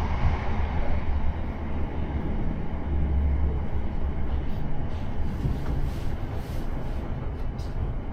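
Class 455 electric multiple unit running along the track, heard from inside the carriage: a steady low rumble of wheels and motors with road noise over it.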